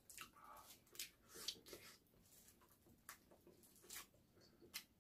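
Faint eating sounds: a person chewing sauce-coated Korean fried chicken, with a string of short wet smacks and clicks, the loudest about a second and a half in.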